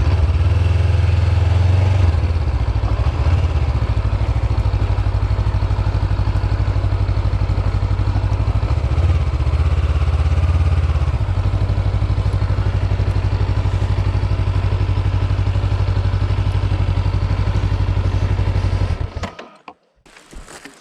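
Motorcycle engine running at a steady idle, a little heavier twice, then switched off and cutting out suddenly near the end.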